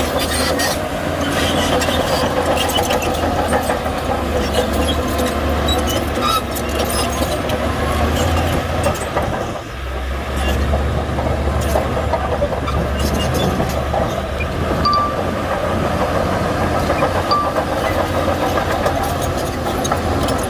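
Shantui bulldozer's diesel engine running steadily at work, with frequent short clanks and rattles over it; the engine sound drops briefly about halfway through.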